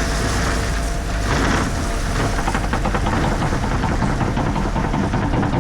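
Engines of heavy equipment running steadily, with a short rush of noise about a second and a half in.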